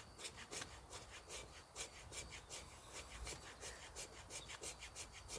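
Squared 90-degree spine of a steel machete scraped rapidly along wood in short repeated strokes, about four a second, shaving off fine curls for kindling.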